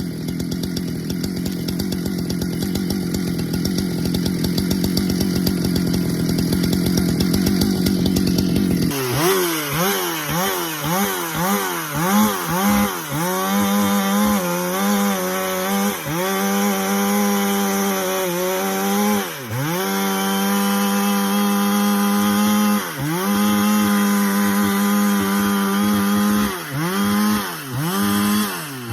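Husqvarna two-stroke chainsaw noodling a large pecan round lengthwise along the grain. It runs at a steady pitch under load for about nine seconds, then the engine note keeps dipping and recovering as the saw bogs in the cut and picks back up.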